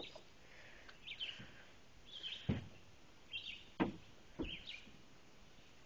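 A bird giving a short chirping call over and over, about once a second. A few low thumps come in the middle, the loudest about four seconds in.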